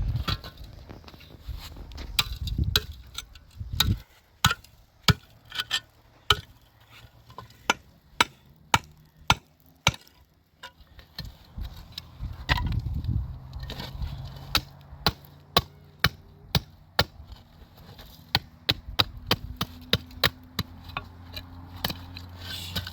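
Hand tool striking repeatedly in masonry work: irregular runs of sharp knocks, two or three a second at times, with short pauses between runs.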